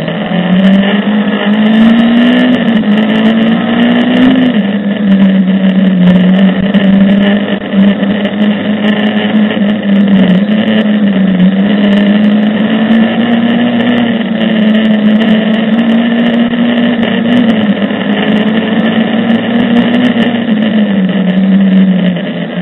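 Mercedes 190E rally car's engine running hard under load, heard from inside the cabin, its pitch rising and dipping as the throttle opens and lifts through the bends.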